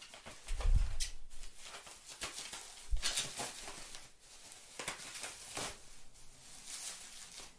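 Handling of a heavy cardboard trading-card box and its packing: a low thump about a second in and a sharp knock near three seconds, with rustling and scraping of cardboard and paper throughout.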